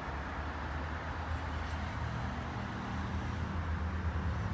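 Diesel engine of an 83-horsepower McCormick A-Max 90 tractor idling steadily, a constant low drone.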